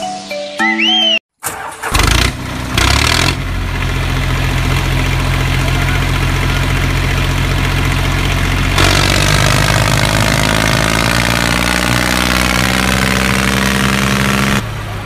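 A brief musical jingle, then a tractor engine starts about two seconds in with a few cranking strokes and settles into a steady run, growing louder and harsher about nine seconds in before cutting back near the end.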